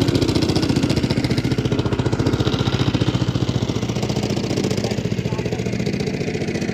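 Small motor boat's engine running steadily, with a fast, even knocking beat.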